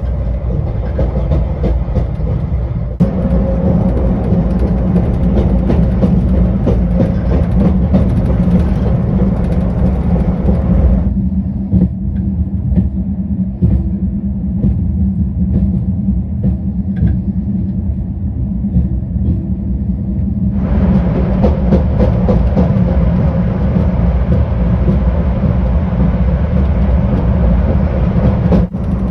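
Steady rumble and rush of the Talgo-built Afrosiyob high-speed train running at speed. The sound changes abruptly a few times, with the upper hiss dropping away for several seconds in the middle and then returning.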